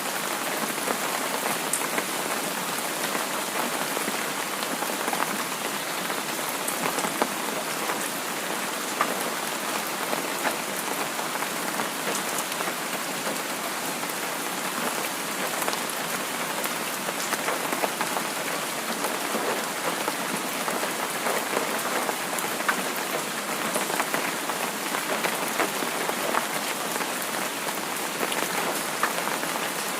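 Steady light rain falling, an even hiss with many scattered individual drops tapping.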